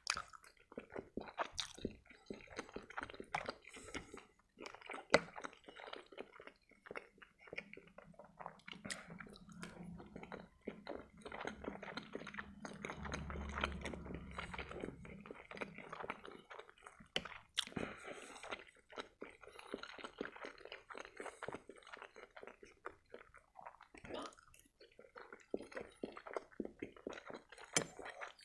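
Close-miked wet chewing and mouth smacking of soft boiled pelmeni dumplings, with a run of small irregular clicks and occasional sharper ones.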